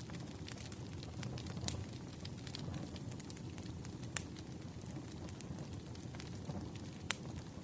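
Wood fire crackling: a steady low rumble of burning logs with scattered sharp pops, the loudest about four seconds in and near the end.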